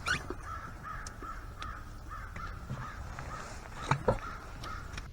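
Birds calling over and over in short, evenly spaced notes, with a few sharp clicks.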